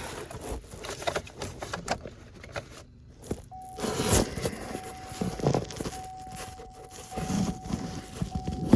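Keys jangling and small clicks and scrapes inside a vehicle cab, with a steady electronic chime tone that comes on about three and a half seconds in.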